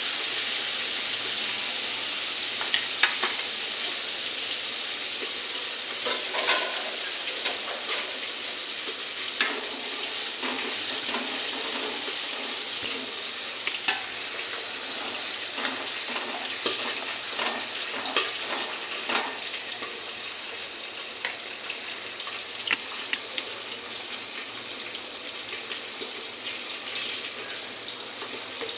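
Chicken frying in hot oil with a masala paste: a steady sizzle, with a spoon scraping and clicking against the pan every now and then as it is stirred.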